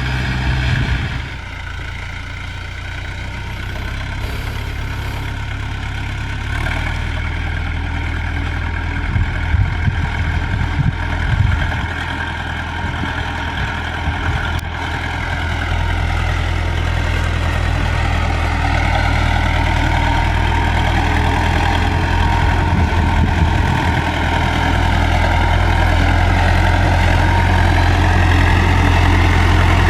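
Landini tractor's diesel engine running steadily while it works as a dozer, its pitch drifting slowly up and down, with a few short knocks about ten seconds in. It grows louder toward the end.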